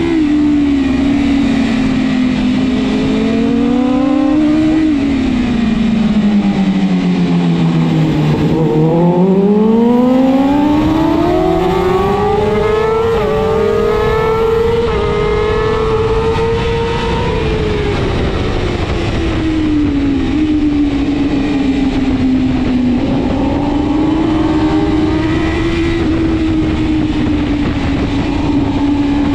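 BMW S1000RR superbike's inline-four engine running hard at racing speed. Its pitch falls to a low point about eight seconds in, climbs steadily to its highest around fifteen seconds, then drops back and holds fairly steady.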